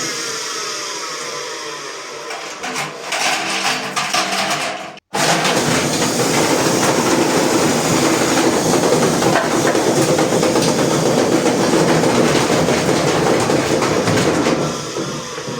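LG washing machine motor and drum running with a whine that slowly falls in pitch. After a sudden brief gap, a fast spin comes in with a dense, continuous rattling clatter, which eases near the end.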